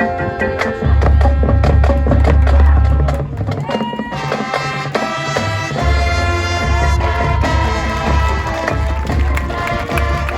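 Marching band playing: brass and wind chords held over drums and a deep, heavy bass line, with a couple of bending notes midway.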